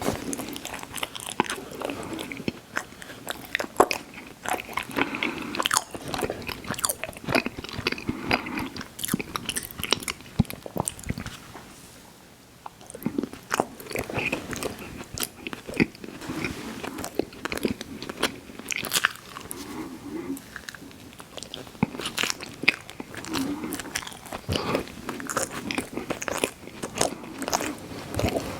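Close-miked biting and chewing of ice cream sandwiches: a steady run of wet, crunchy mouth sounds with many sharp clicks, easing off briefly about twelve seconds in.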